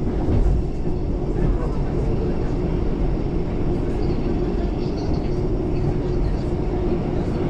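Steady rumble of a London Overground Class 378 electric train on the move, heard from on board, with a faint steady hum over the deep running noise.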